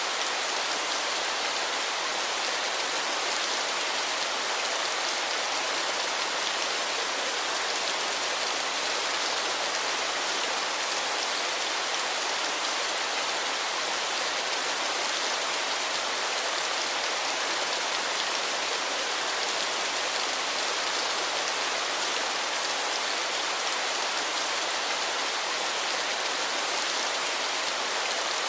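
Waterfall: steady rushing, splashing water, an even hiss with little low rumble and no change in level.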